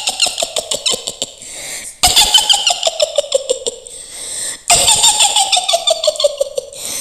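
Mak Lampir's high-pitched witch cackle: runs of rapid 'hihihi' laughter, each run falling in pitch, starting over twice.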